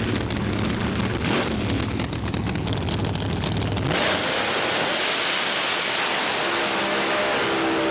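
Drag car's engine running with a dense, rapid crackle, which cuts off about four seconds in to a steady, even rush of noise.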